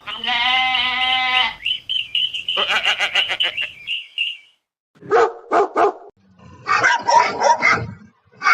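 A string of separate animal calls: a held, pitched call, then a high pulsing call, then three short dog barks about a third of a second apart, then a denser run of calls.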